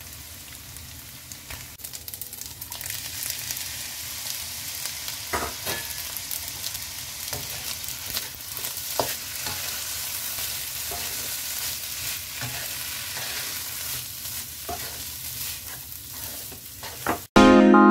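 Fried rice with petai beans, cabbage and carrot sizzling in a nonstick wok while a spatula stirs it, with scattered scrapes and taps of the spatula against the pan. Loud music cuts in abruptly near the end.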